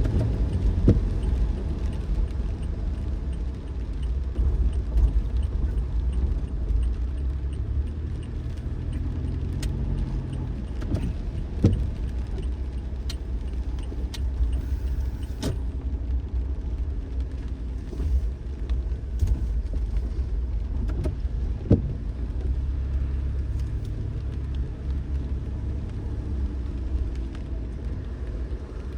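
A car driving, with a steady low rumble of road and engine noise. About a dozen sharp clicks or knocks sound at irregular moments over the top.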